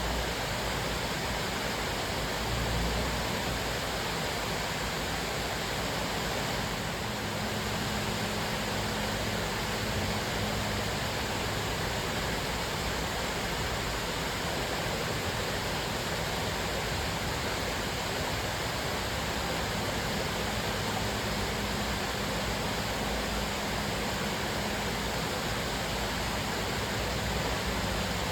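Cascading waterfall: water falling and splashing in a steady, unbroken rush.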